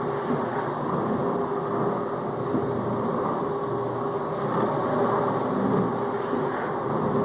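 Whirlpool dishwasher in the circulation stage of its final rinse: the wash pump motor runs with a steady hum while water sprays inside the tub, a constant rushing wash.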